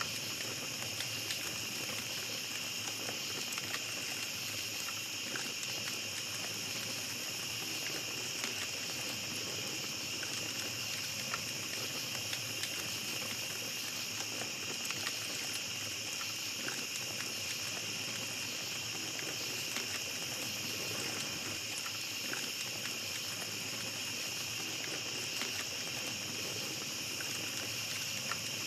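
Small campfire crackling with frequent small sharp pops, over a steady high-pitched chorus of night insects.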